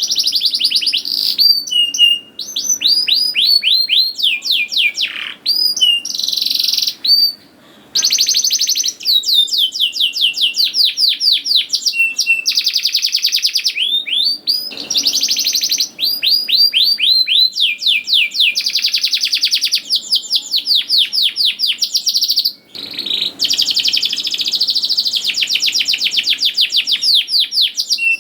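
Domestic canary singing loudly, in long fast trills of rapidly repeated down-slurred whistles. The song breaks briefly twice.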